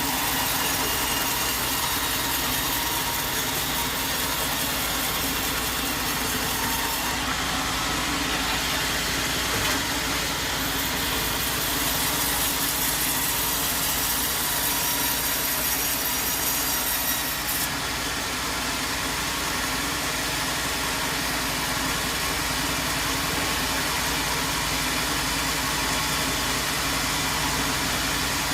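Sawmill machinery running steadily: a continuous engine-like hum with a dense hiss over it and no breaks.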